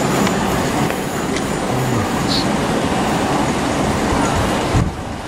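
Southern Class 377 Electrostar electric trains moving through the platform, one pulling away as another comes in: a steady, loud rumble of wheels on track that drops off abruptly near the end.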